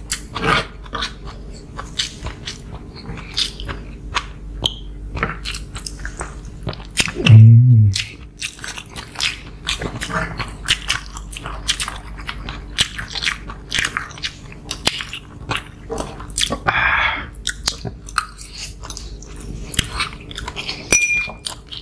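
Close-miked mukbang eating sounds: two people chewing and smacking their lips, with small clicks of spoon and fork. About seven seconds in comes one loud, short hum from a closed mouth.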